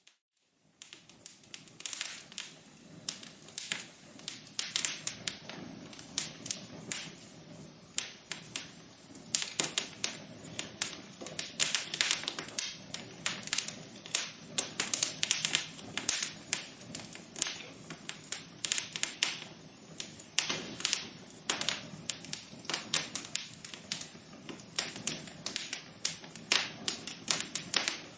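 Wood fire in a fireplace crackling steadily, with dense, irregular sharp pops and snaps over a soft low hiss of burning. A brief dropout right at the start, after which the crackling runs on.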